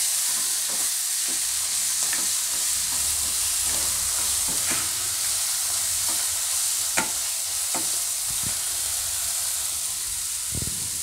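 Chopped fenugreek leaves frying in hot oil in a nonstick wok, a steady sizzle, as a wooden spatula stirs and scrapes them through. A few sharp knocks of the spatula against the pan come in the second half.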